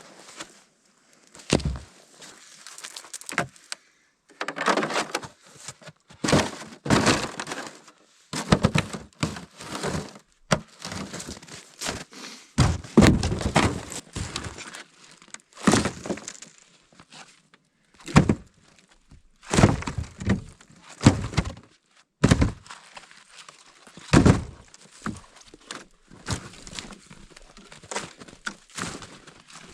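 Dry dead wood being broken up for firewood: a series of sharp cracks and thunks at irregular intervals, with a few longer crackling stretches.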